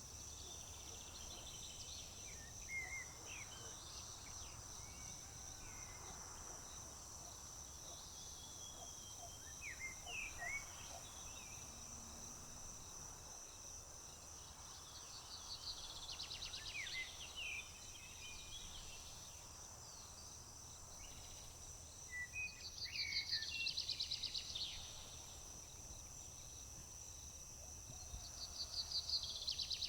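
Crickets trilling in one steady high-pitched drone, with several birds chirping. A rapid trilled birdsong of about two seconds breaks in three times: past the middle, about two-thirds through, and near the end.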